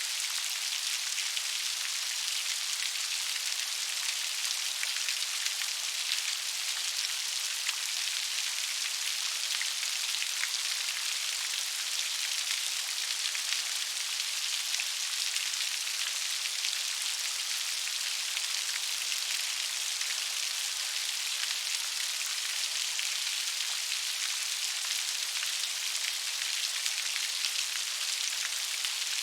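Steady gentle rain: an even hiss of drops falling on a surface, with fine individual drop ticks scattered through it.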